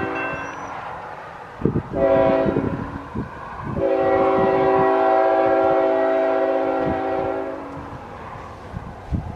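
A diesel locomotive's multi-chime air horn sounding for a grade crossing. A long blast trails off just after the start, then comes a short blast, then a long blast of about four seconds.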